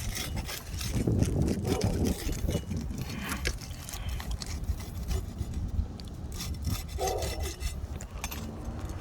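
Asphalt roof shingles being pried and scraped loose with a tool worked under their edges, breaking their seal to the course below. The scraping and rubbing is busiest in the first few seconds.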